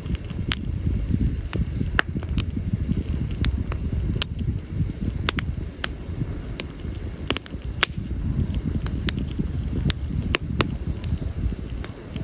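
Burning firewood crackling in a campfire: irregular sharp pops and snaps, a few of them louder, over a steady low rumble.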